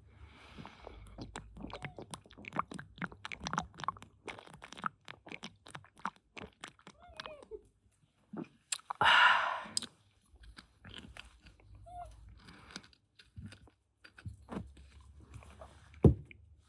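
Hand tools and car parts being handled: a busy run of small clicks and rattles, a short hiss about nine seconds in, and a single thump near the end.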